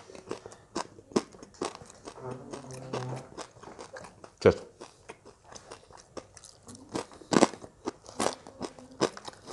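Crunching and chewing of crispy deep-fried duck close to the microphone: a string of sharp crunches, two of them louder in the second half.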